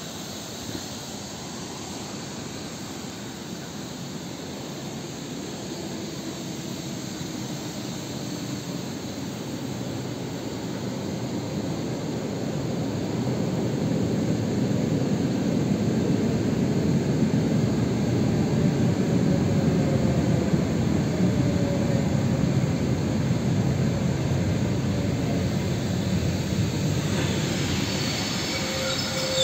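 MCD-1 electric commuter train approaching and pulling into the platform, its rumble growing steadily louder over about fifteen seconds. In the second half a whine falls in pitch as the train slows.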